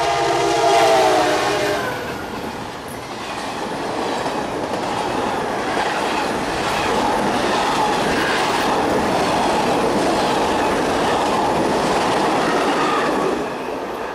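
Passing CSX office car train: the locomotive's horn sounds and cuts off about two seconds in, then the passenger cars rush by with the steady rumble and rhythmic clicking of wheels on the rails. The noise falls away near the end as the last car passes.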